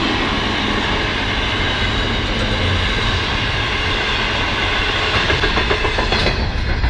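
Container wagons of an intermodal freight train rolling past: a steady rumble of steel wheels on rail with a thin high ringing, and a quick run of wheel clacks about five to six seconds in as the last wagons pass.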